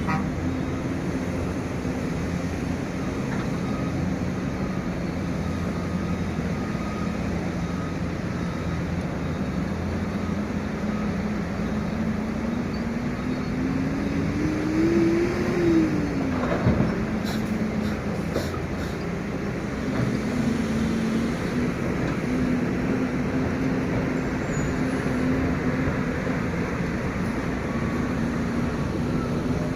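Heavy diesel engine of an excavator running steadily, its pitch climbing for a few seconds near the middle and then dropping back.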